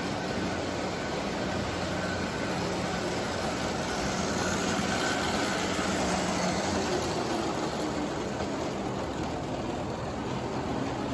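O gauge model train running around the layout, pulling freight cars: a steady running noise from the locomotive and wheels on the three-rail track.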